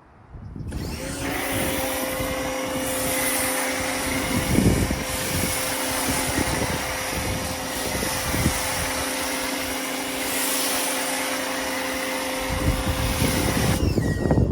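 Nilfisk Core 140 electric pressure washer running with a steady motor-and-pump hum and hissing spray, laying snow foam through a foam cannon. It starts abruptly about a second in and cuts off shortly before the end, with a couple of brief knocks along the way.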